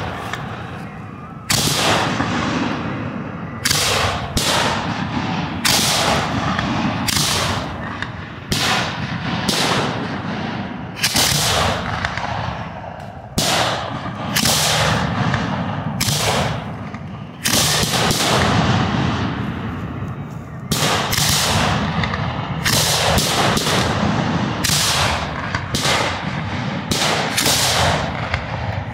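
Professional fireworks fired one after another from racked mortar tubes, hand-lit with a flare: a loud bang every second or two, each trailing off before the next.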